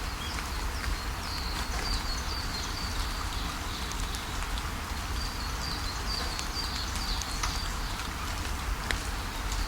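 Steady rain falling, with scattered drops heard as clicks and a low rumble underneath. A bird gives two runs of short, repeated high chirps, one in the first few seconds and another in the middle.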